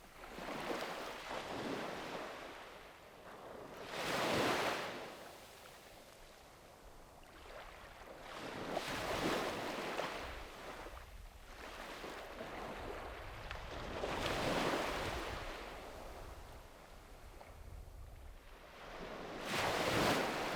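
Sea waves breaking on the shore, four in turn about five seconds apart, each rising to a wash of surf and fading as it draws back.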